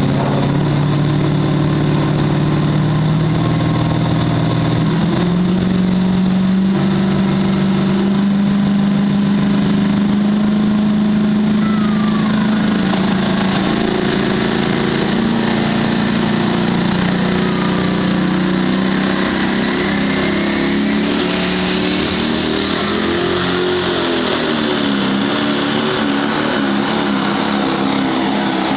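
Pro stock pulling tractor's diesel engine running hard under load during a pull. The engine note climbs in steps over the first few seconds, holds high and steady, then drops and wavers in the second half.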